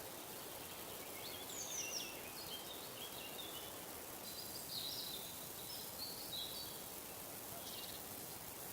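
High, quick twittering birdsong: short chirps and falling sweeps in two or three phrases, then a brief buzzy note near the end, over a steady background hiss.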